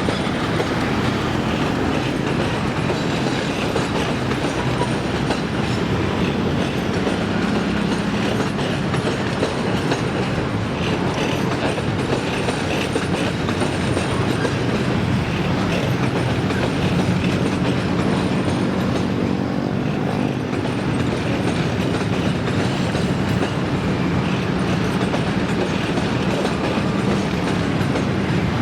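Train running past on the rails: a steady, loud rumble with the clickety-clack of wheels over the rail joints.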